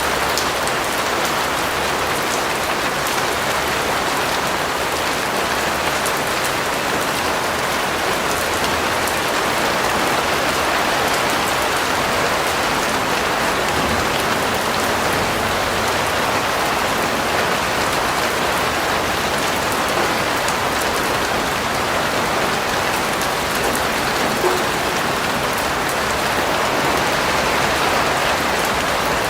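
Steady rain falling, with a fine patter of drops on a surface.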